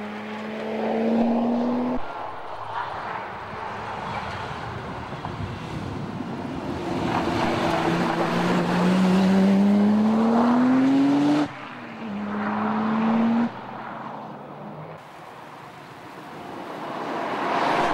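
Nissan Skyline R32 GT-R's twin-turbo straight-six revving hard under acceleration, its pitch climbing steeply. It comes in several short passes that cut off abruptly.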